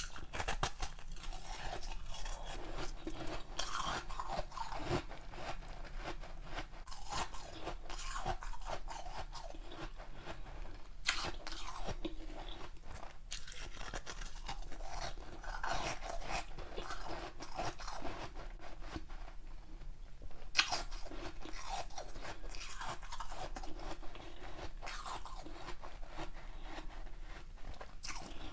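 Close-miked crunching and chewing of ice: repeated bites into a large ice block, with a few sharper cracks as pieces snap off between stretches of grinding chews.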